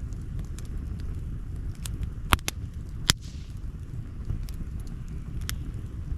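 Outdoor wood campfire crackling: scattered sharp snaps and ticks over a steady low rumble, with two louder pops a little after two and three seconds in.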